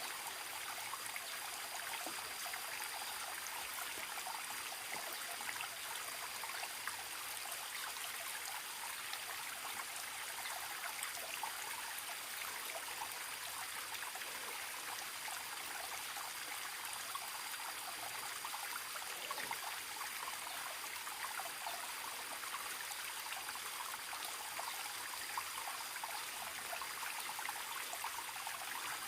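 Forest stream babbling and trickling steadily, with a thin, steady high-pitched tone above the water.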